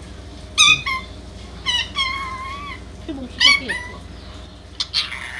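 Indian ringneck parakeet calling: a few short, high-pitched gliding calls and one longer drawn-out call, then harsher squawks near the end.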